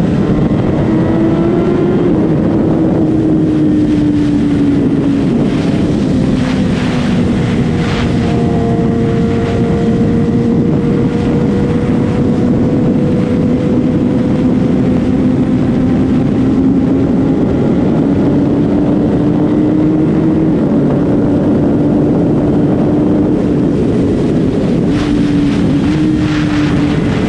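Sport motorcycle engine running at a fairly steady, high speed while riding, its pitch drifting gently up and down, under loud rushing wind noise.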